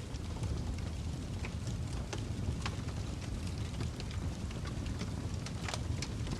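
Wood fire burning in a fireplace: a steady low rumble of flames with scattered sharp crackles and pops from the burning logs, several a second at irregular intervals.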